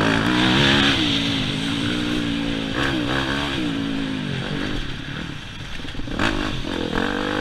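Yamaha YZ250F four-stroke single-cylinder motocross engine being ridden hard, its pitch rising and falling as the rider works the throttle. It eases off about five seconds in, then picks up again near the end.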